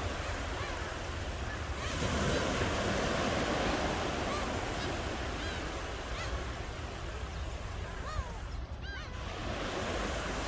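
Ocean surf: waves breaking and washing up on a shore as a steady rushing wash, swelling about two seconds in and easing back near the end.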